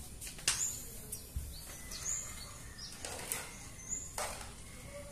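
A small bird giving a short, high chirp about every one and a half to two seconds, over steady background noise, with a few sharp clicks, the loudest about half a second in.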